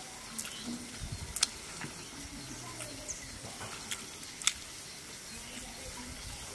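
A man chewing a mouthful of rice eaten by hand, with a few sharp mouth clicks, the loudest about a second and a half in and about four and a half seconds in, over a steady faint background.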